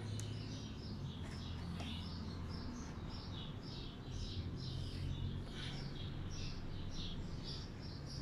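A bird chirping over and over, short high chirps about two or three a second, faint in the background over a low steady hum.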